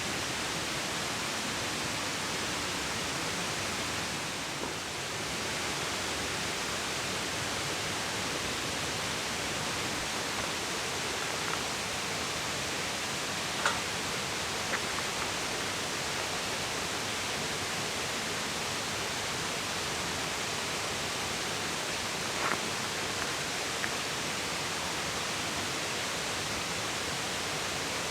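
Steady, even rushing of water, with a few faint clicks and taps over it.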